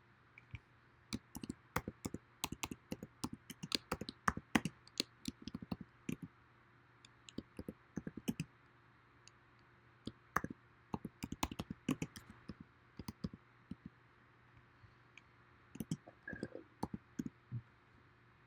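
Irregular runs of sharp clicks from a computer keyboard and mouse, with short pauses between the runs.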